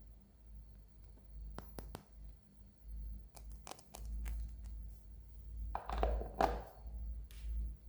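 Close-up handling of toy packaging: scattered light clicks and taps, with a short crinkling rustle of plastic or paper about six seconds in.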